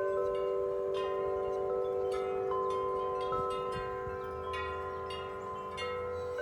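Several large tuned wind chimes blown by strong wind, their deep tones ringing on and overlapping as new strikes sound about every second.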